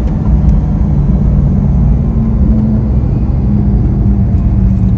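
Lamborghini sports car engine running steadily while cruising, a loud low drone heard from inside the cabin.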